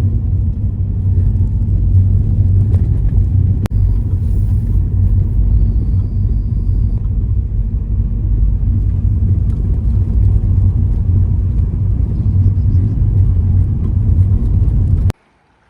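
A 23-year-old Ford Focus driving along: a steady low engine and road rumble, with a split-second break about four seconds in. It cuts off abruptly just before the end.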